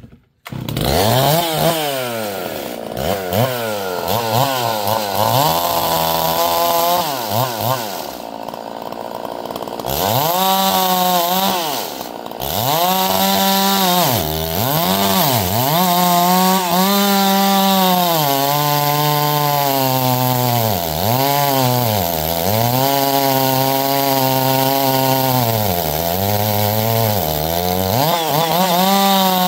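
Chainsaw running at high revs while cutting wood, its engine pitch dipping and recovering over and over as the chain bites in and frees up. The engine is quieter for a couple of seconds around the first third, then runs near full throttle.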